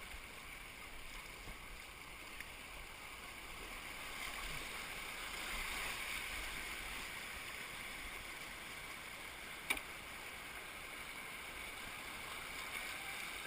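Creek water running, a soft rushing hiss that swells a little midway, with a single sharp knock about ten seconds in.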